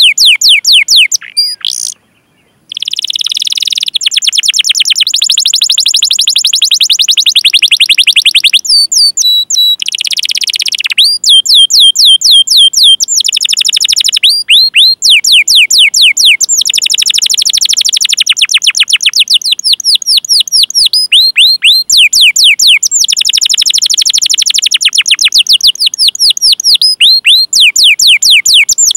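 Domestic canary singing long, rapid rolling trills of repeated sweeping chirps in phrase after phrase, with a short break about two seconds in.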